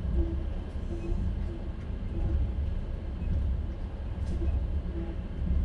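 Passenger train running along the track, heard from inside an open-plan sleeper car: a steady low rumble with a wheel clatter that repeats about every half to two-thirds of a second.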